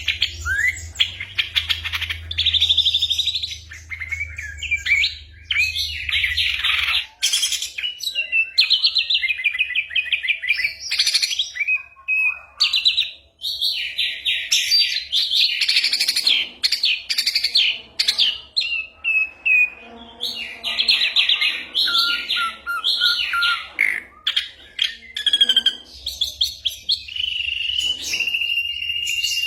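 Ashy drongo singing a varied song of rapid trills, chattering runs and short whistles, full of imitations of other birds' calls. Near the end it holds one long steady whistle.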